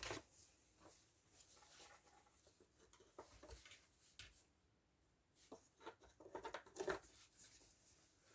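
Faint, scattered clicks and light knocks of hand work on a Stihl MS170 chainsaw's parts, with a quick run of taps a little after halfway.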